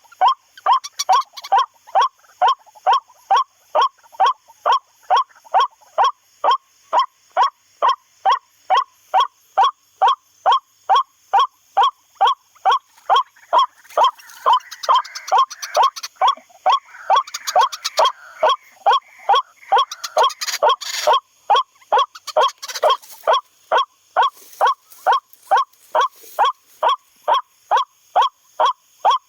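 White-breasted waterhen call played from an MP3 lure: short nasal 'kruak' notes repeated with machine-like regularity, about two a second. For several seconds midway a rougher rustling noise runs under the calls.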